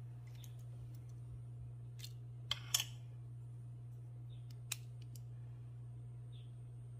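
Sharp plastic clicks from an orange compass-style circle cutter being handled and its sliding arm adjusted: a few clicks about two to three seconds in, the loudest a short cluster, and one more near five seconds, over a steady low hum.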